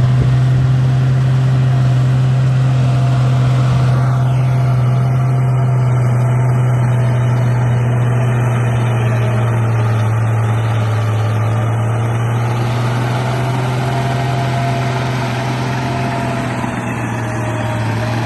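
An engine running steadily at an even, low pitch: a continuous drone with no breaks and no revving.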